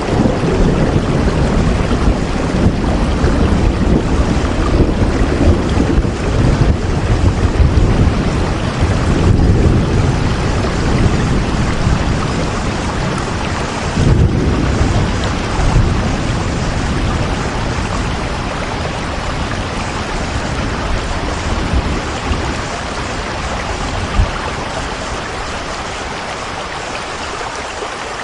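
Steady heavy rain with a deep, uneven low rumble underneath, easing slightly toward the end.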